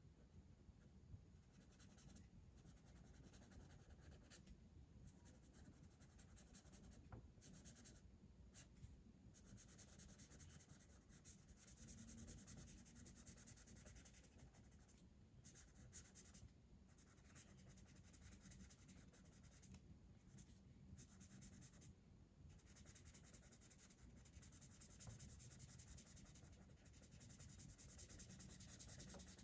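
Faint scratching of a colouring tool on paper, steady strokes that stop briefly now and then.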